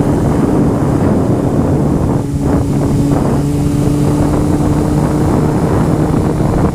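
Honda CBR motorcycle engine running at a steady cruising pace, its note holding nearly level, with wind rushing over the microphone.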